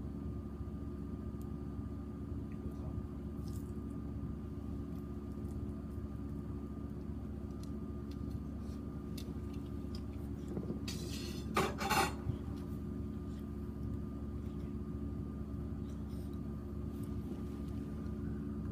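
Wood fire burning in a small metal fire box: a steady low rumble with faint scattered crackles, and a brief metallic clatter about eleven to twelve seconds in.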